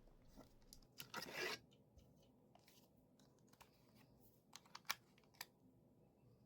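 Small hard clicks and a short scraping rustle about a second in from handling a precision electric screwdriver kit and its small bits, with three sharper clicks near the end.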